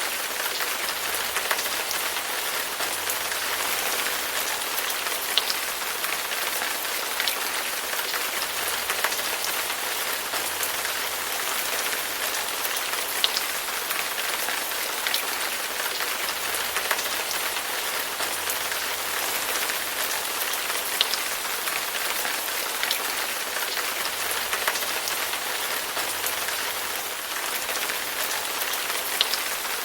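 Steady rain falling: an even hiss, with scattered single drops ticking sharply through it.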